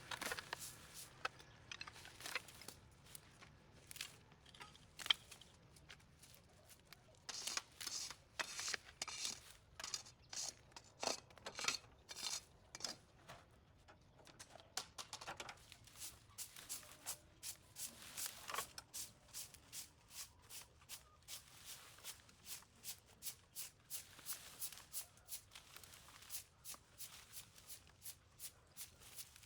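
Hand tools clearing weeds and soil off a sidewalk: a long series of short scraping and cutting strokes, irregular at first, then a steady two or three strokes a second.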